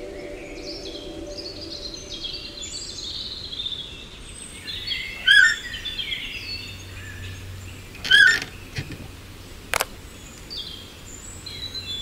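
Small birds chirping and twittering, many short rising and falling calls, with two louder calls about five and eight seconds in. A low steady hum fades out in the first two seconds, and a single sharp click sounds near the ten-second mark.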